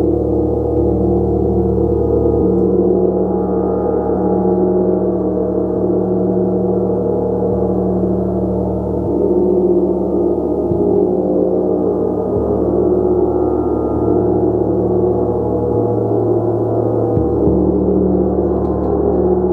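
Gong played continuously in a sustained, steady wash of overlapping tones, its deep hum under shimmering mid-range overtones, with no breaks or single loud strikes.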